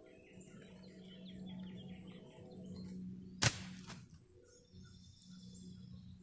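Small birds chirping in short runs over a steady low hum, with one sharp knock about three and a half seconds in.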